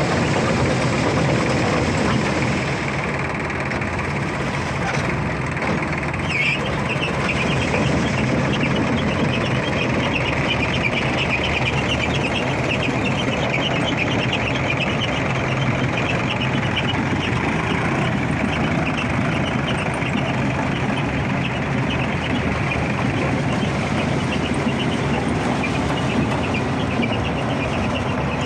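Sonalika 740 tractor's diesel engine running steadily at an even speed.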